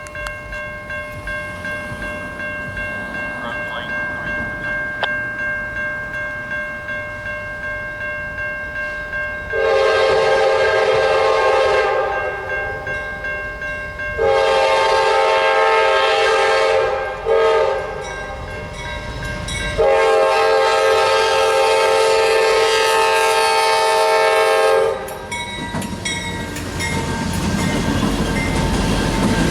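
Diesel freight locomotive air horn sounding the grade-crossing signal: two long blasts, a short one, and a final long blast, over the steady running noise of a moving train. The pattern warns of the train's approach to a road crossing.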